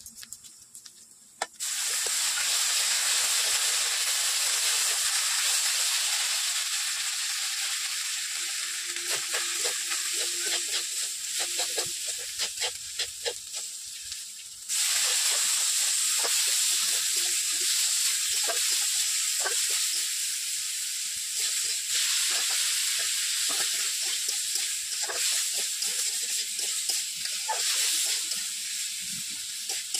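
Onions and spices frying in hot oil in a metal kadai, a loud sizzle that starts suddenly about two seconds in, with a spatula scraping and knocking against the pan. The sizzle fades a little, then jumps up suddenly around halfway as chopped tomatoes go into the hot pan, and keeps going.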